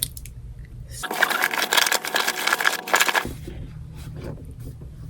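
Rattling and scraping of small items being rummaged through, about two seconds long starting about a second in, followed by a few lighter clicks.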